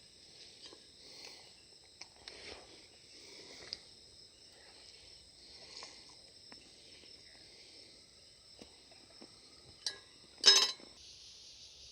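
Insects, crickets or the like, chirping in a steady high-pitched chorus, with faint scattered ticks and rustles. About ten and a half seconds in comes one sharp, loud knock, and the high insect hiss then turns denser and steadier.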